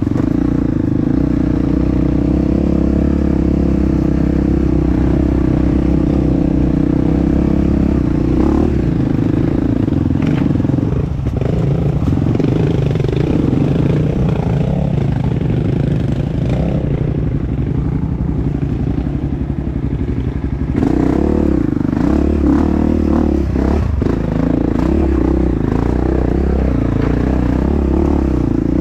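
Honda CRF dirt bike engine, heard up close, running at a steady pitch. About eight seconds in, the revs start rising and falling for roughly twelve seconds, then settle back to a steady note.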